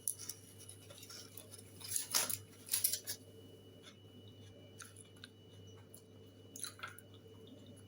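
A person chewing tough, chewy food close to the microphone: scattered mouth clicks and crunches, the louder ones about two and three seconds in and again near the end, over a low steady hum.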